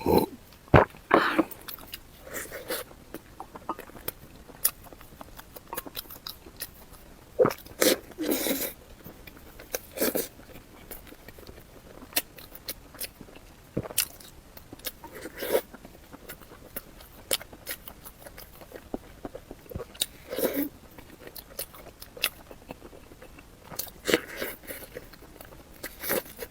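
A person chewing and biting food close to the microphone: irregular crunches and clicks, with a few louder bites.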